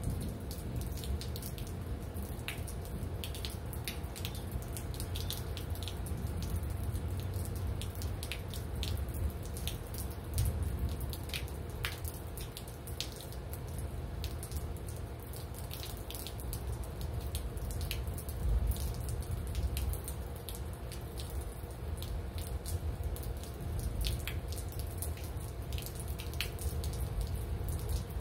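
Rain dripping and pattering, with irregular close drops ticking over a steady low rumble.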